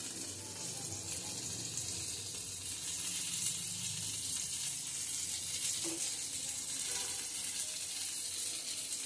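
Brinjal pieces frying in hot oil and ghee in a frying pan: a steady sizzle, with a couple of light clicks of metal tongs against the pan about six and seven seconds in.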